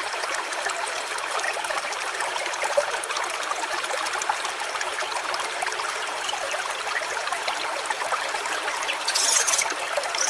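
Stream water trickling and flowing steadily, with a brief high-pitched hiss near the end.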